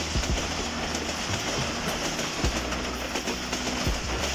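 Passenger train coaches rolling past on the track: a steady rumble and rush of steel wheels on rail, with a few sharp clacks as the wheels cross rail joints.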